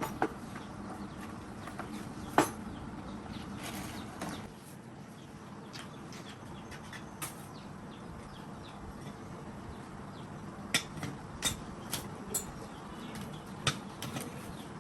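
Scattered sharp clicks and knocks, a handful of single strikes with a quick run of them near the end, over a steady low hum that drops away about four seconds in.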